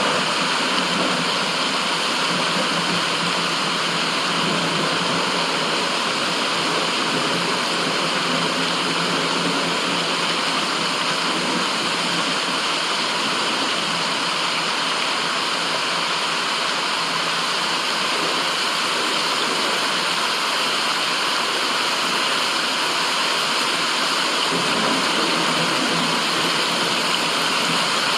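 Steady, even rushing white noise with no breaks or changes in level.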